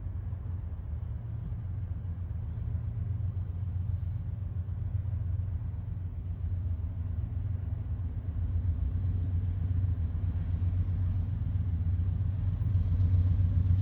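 Diesel freight locomotives approaching under power: a low, steady engine rumble that grows slowly louder.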